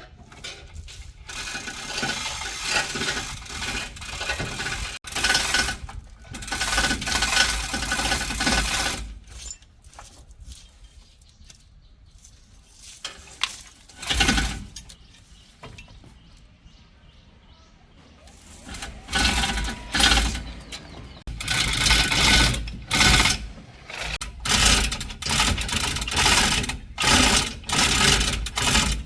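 Ratchet wrench worked in repeated strokes on truck bolts, in runs with pauses between. Near the end it goes as a steady train of strokes about once a second.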